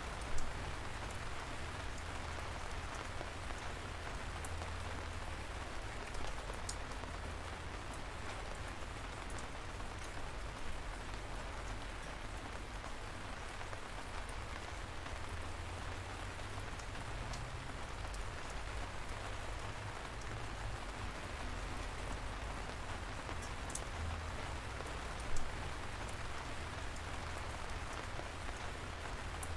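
Steady light rain falling, an even hiss of drizzle with a low rumble underneath. A few single drops hit more sharply, the clearest just after the start and near the end.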